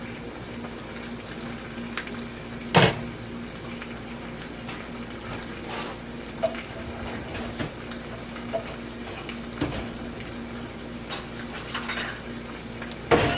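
A utensil clattering and clinking against a pot and dishes, with a loud clank about three seconds in and a quick run of clinks near the end, over a steady low hum.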